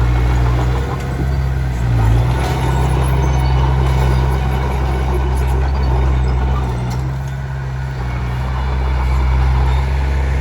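Komatsu D21P bulldozer's diesel engine running steadily under load, with a brief swell about two seconds in and a slight dip around eight seconds in.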